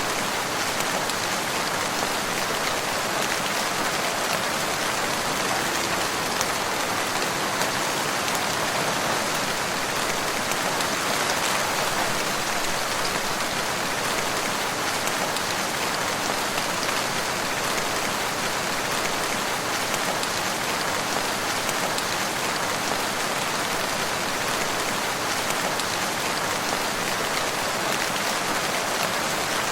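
Steady rain falling, a dense even patter of raindrops.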